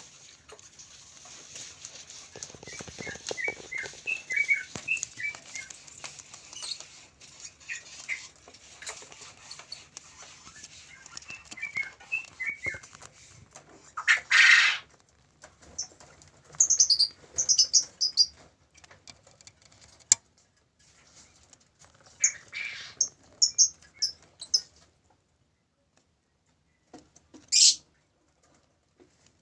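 Lovebirds calling: clusters of short chirps, then a loud harsh screech about halfway through, and shrill high chirps in the second half, with a second sharp call near the end. Wings flap among the calls.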